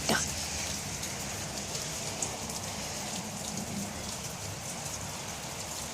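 Steady rain falling, an even hiss with scattered distinct drops ticking, one a little sharper about two seconds in.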